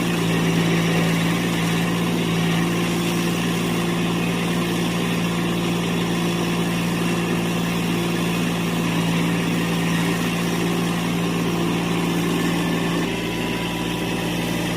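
Subcompact tractor's diesel engine running steadily. Near the end it dips slightly in level and a faint thin whine comes in.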